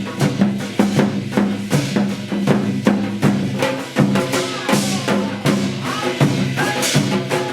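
Percussion-led Korean shamanic gut music from Hwanghae-do, reworked for the stage: a steady, fast run of drum strokes over held pitched tones.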